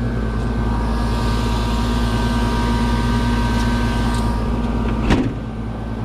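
A steady machine hum: a low rumble with a few held tones above it. A sharp knock comes about five seconds in, and a lower hum carries on after it.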